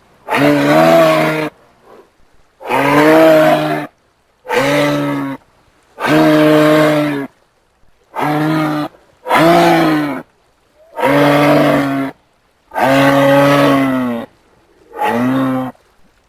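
A large hoofed animal's moo-like bellows: nine calls of about a second each, with a steady low pitch and short pauses between them.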